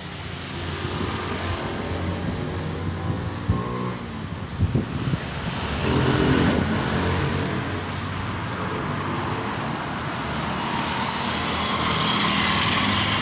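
Street traffic, with a motor vehicle's engine passing close by, loudest about six seconds in.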